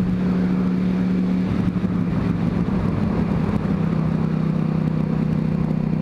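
Yamaha R1 sportbike's inline-four engine running at a steady cruise, its pitch easing slightly lower about halfway through, with wind buffeting on the microphone.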